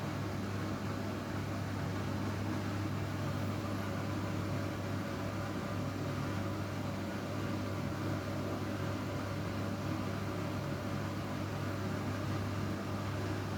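Washing machine running with a steady motor hum and whir, unchanging throughout.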